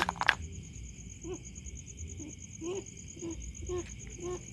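Short low calls repeated every half second or so, which the uploader takes for a sewer rat; crickets chirp steadily behind them. A sharp clicking knock sounds right at the start.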